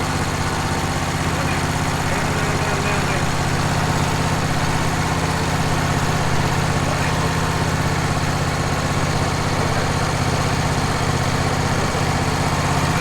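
Wood-Mizer LT15 sawmill's engine running steadily at a constant speed, with no change in pitch or level.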